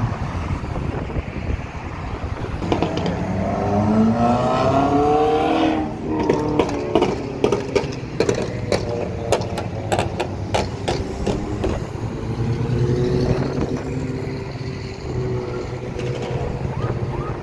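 Car engine accelerating hard about three seconds in, its pitch rising for a few seconds, then a run of sharp crackles. A low drone of engines idling in traffic runs underneath.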